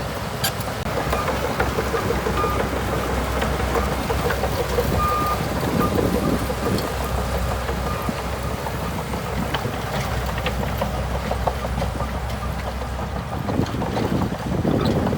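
Shantui DH17C2 bulldozer's diesel engine running steadily, with scattered short clicks and knocks.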